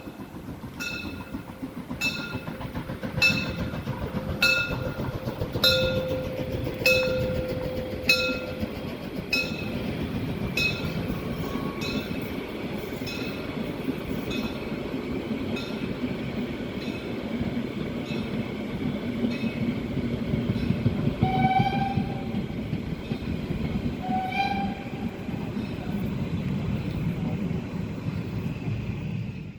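Narrow-gauge "Molli" steam train rolling past: a steady rumble of the train with a regular click about once a second that fades away over the first half. There are two brief squeals in the last third.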